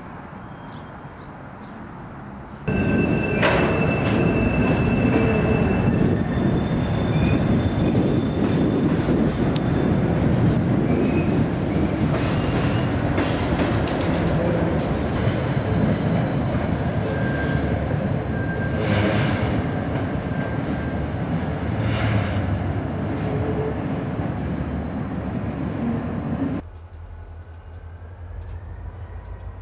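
Freight train rolling across a steel truss bridge: a steady rumble of wheels on rail, with high-pitched wheel squeals and a few sharp metallic clanks. It starts suddenly about three seconds in and cuts off near the end.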